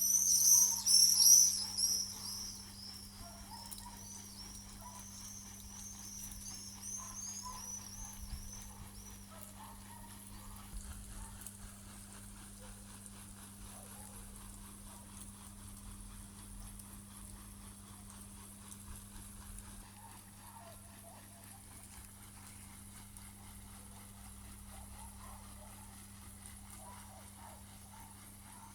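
Small birds chirping in quick repeated high calls, loudest in the first two seconds and fading out by about nine seconds in, over a steady low hum.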